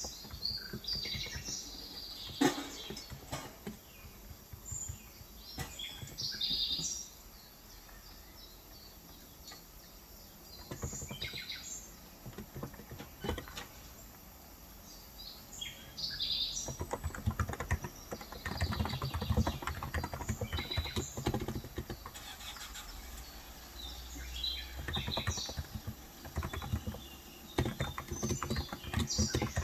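Typing in bursts on a Cox Endeavor electrostatic capacitive keyboard with 35 g switches, the keystrokes coming thickest in the second half. Birds chirp in short high calls throughout, most in the first few seconds.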